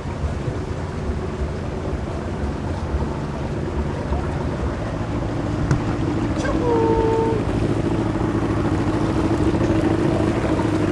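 Motorboat engine running, a steady low hum that grows louder a little past halfway through. A brief high tone sounds just before the engine gets louder.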